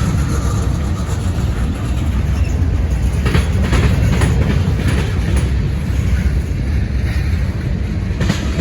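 Freight train of tank cars rolling past, with a steady low rumble of the wheels on the rails and a few clicks as the wheels cross rail joints.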